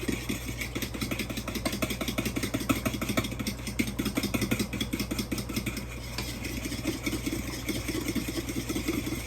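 Egg and milk being whisked by hand in a bowl: a fast, even clatter of strokes, several a second, that keeps going without a break.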